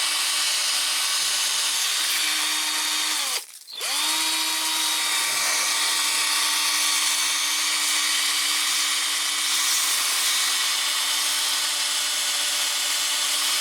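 Cordless drill spinning a model's axle against sandpaper: a steady motor whine with the hiss of sanding. About three and a half seconds in the drill stops, its pitch falling, then winds back up and runs on. The drill's battery is going flat.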